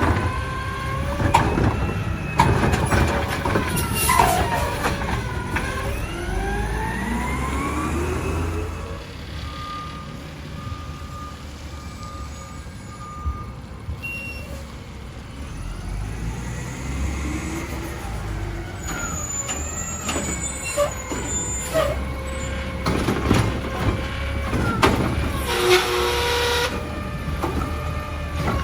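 Garbage truck working: its diesel engine revs up and down, with air hissing twice and a short run of evenly spaced beeps about a third of the way in.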